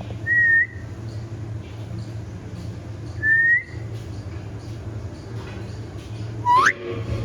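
Three short, clear whistles about three seconds apart: the first two level and high, the last a quick upward sweep. They sound over a steady low hum.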